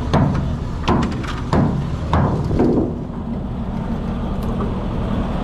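About six hammer blows in the first three seconds, over an engine running steadily underneath.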